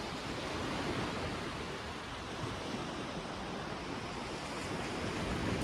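Sea surf washing steadily onto the beach, a continuous even rush of waves.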